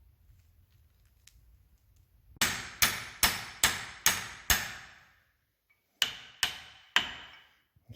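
Hammer blows on a steel shaft, each strike ringing briefly: six quick blows about 0.4 s apart, a short pause, then three more. They are driving the worn boom shaft.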